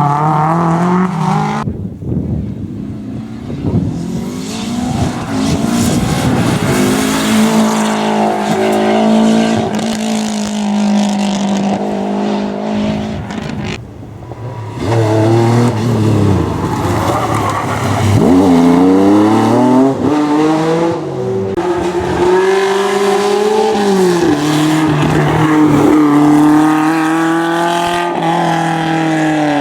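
Rally car engines at full throttle, revs climbing and falling sharply through gear changes and lifts, in several separate passes with sudden changes about two seconds in and about halfway through.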